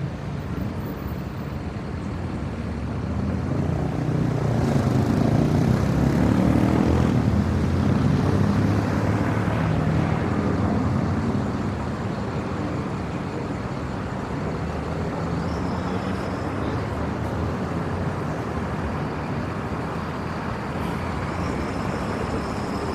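Steady city traffic noise with a large engine passing, a low drone that swells about four seconds in and eases back down after about eleven seconds.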